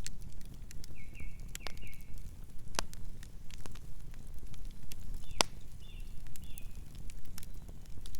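Campfire burning with a low steady rumble under scattered sharp crackles and pops of burning wood, the loudest pop about five seconds in. A few brief high chirps sound around the first and sixth seconds.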